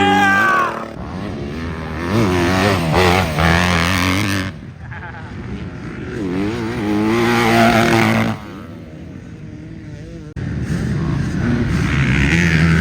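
Motocross dirt bike engines revving up and down, the pitch climbing and falling as the bikes accelerate and shift, with the sound changing abruptly several times.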